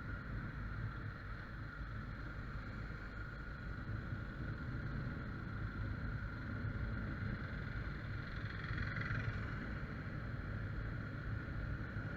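Faint, steady low rumble of a vehicle running, with a steady high tone above it and a slight swell about nine seconds in.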